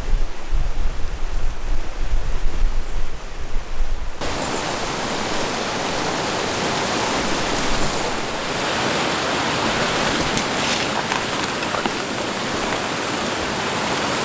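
Strong wind buffeting the microphone in gusts with a deep rumble; about four seconds in it changes abruptly to the steady rushing hiss of river water.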